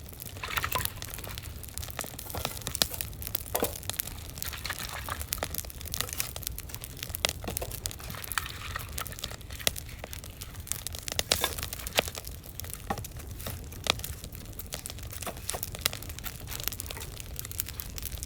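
Firewood burning in a large campfire pit, crackling and popping irregularly over a steady low rumble.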